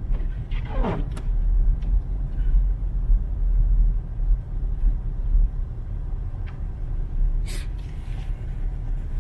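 Car driving slowly over a snow-covered street, heard from inside the cabin: a steady low road and engine rumble, with a brief falling tone about a second in and a few light clicks.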